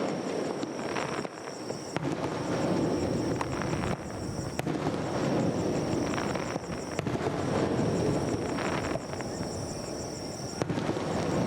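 Aerial fireworks going off: a scatter of sharp bangs and crackles over a continuous rumble of shell bursts.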